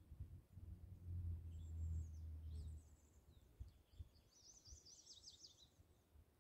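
Faint bird chirping: a few high chirps, then a quick run of chirps about five seconds in, over a low rumble during the first three seconds.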